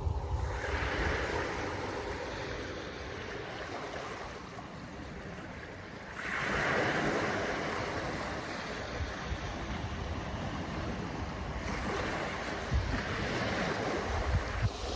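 Waves washing, with a large surge of wash about six seconds in, and wind buffeting the microphone.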